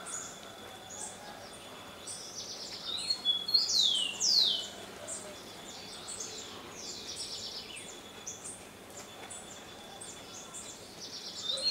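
Wild birds singing in forest: short high chirps and trills throughout, with a burst of loud downward-slurred whistles about three seconds in. A faint steady high tone runs underneath.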